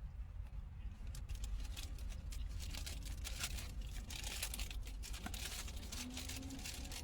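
Paper burger wrapper crinkling and rustling in hands, in a dense run of irregular crackles.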